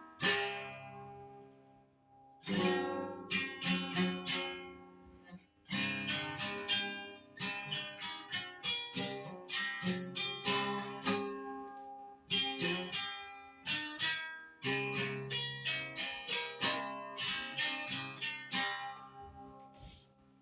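Acoustic guitar played solo, improvised strummed and picked chords in short phrases. Each chord rings out and decays, with brief pauses between phrases; the last one fades near the end.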